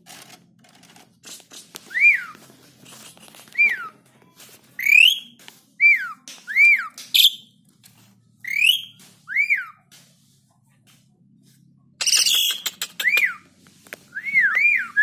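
Asian pied starling (jalak suren) singing in full voice: a string of loud, clear whistled notes, each rising then falling, repeated every half-second to a second, with quieter high chatter between them and a harsh, scratchy burst of song about twelve seconds in.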